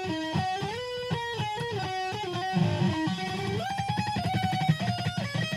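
Electric guitar in Drop C# tuning playing a lead solo phrase: a line of single notes that slide and step between pitches, picked quickly.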